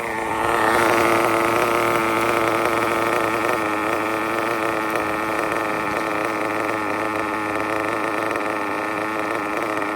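RB CE sealed-backplate nitro RC engine running steadily: a continuous buzz that holds one pitch and swells about half a second in.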